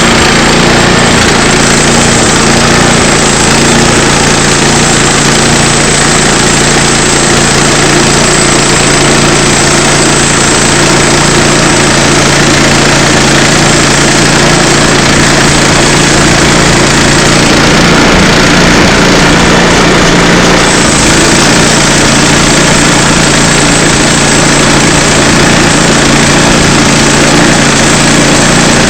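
Small gasoline engine of a portable band sawmill running steadily at speed while the blade cuts along a log.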